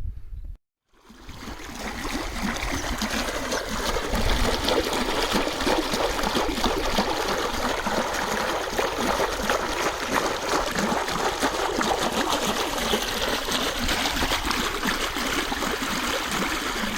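Irrigation water flowing and splashing steadily. It starts after a brief cut about a second in and builds up over the next second.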